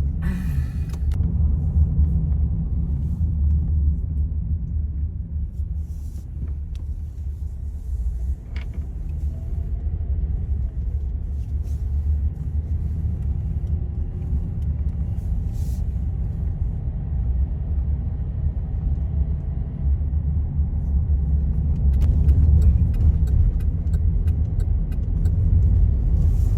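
Steady low rumble of a car on the move, heard from inside, with a few faint clicks near the end.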